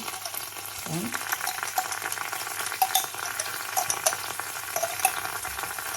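Red curry paste frying in hot oil in a pan: a steady sizzle peppered with small crackles and pops.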